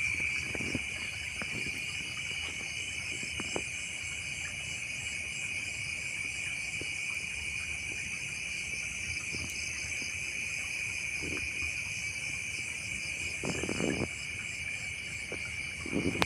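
Crickets and other insects calling in a steady, high-pitched chorus, with a few faint ticks and two brief rustles near the end.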